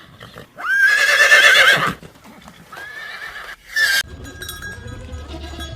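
Horse neighing: a long, wavering whinny about half a second in, then a shorter, quieter whinny around three seconds. About four seconds in, a steady low hum with faint scattered high tones takes over.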